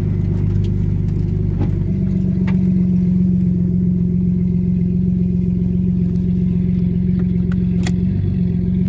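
Nissan RB20 non-turbo straight-six running with no exhaust, open straight from the downpipe, at steady low revs, with a few light clicks.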